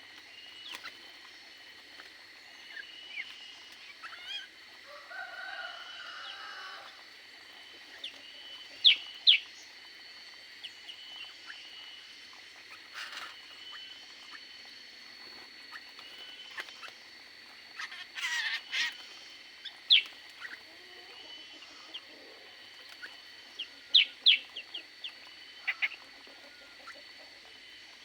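Birds calling: scattered short, sharp chirps, several loud ones coming in quick pairs, among softer calls and one lower, longer call. A faint steady high whine runs underneath.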